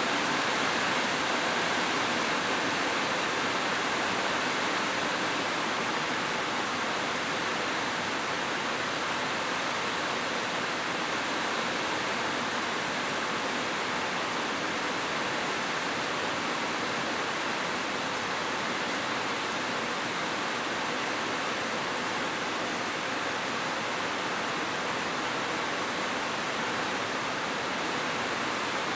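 Heavy rain falling steadily, a dense, even hiss with no pauses or single drops standing out.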